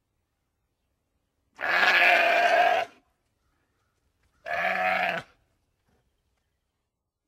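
Sheep bleating twice: a longer baa about one and a half seconds in, then a shorter one about three seconds later.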